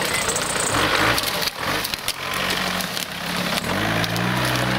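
Off-road vehicle engine running, then revving up near the end with its pitch rising. A rough, rushing noise with scattered knocks fills the first half.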